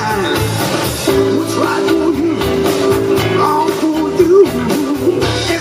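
Live blues band playing a song, with electric guitar, bass and drums under a steady beat. A long held melody note with bends sounds in the middle.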